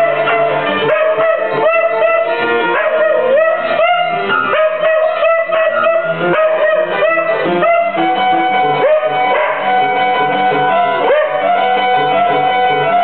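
Dog howling along to a piano: long wavering howls that scoop up and down in pitch over held piano chords, with one longer sustained howl near the middle.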